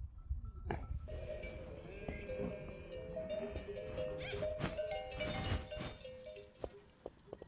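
Livestock bells clanking, several bells of different pitches ringing over one another, with a low rumble underneath.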